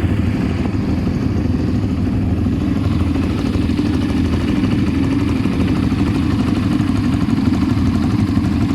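ATV engine running steadily at an even throttle, a continuous low engine drone.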